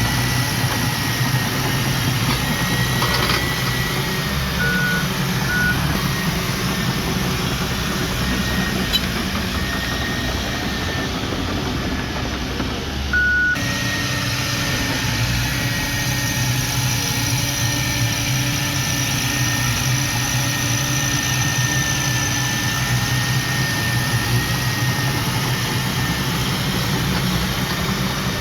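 Diesel engines of heavy earthmoving machinery running steadily, with a faint wavering whine above the rumble and a few short beeps.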